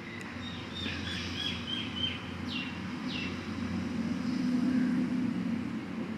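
Bird chirps in the background: a quick run of short high calls, then two falling whistles about halfway through. A steady low hum runs underneath and swells a little about four to five seconds in.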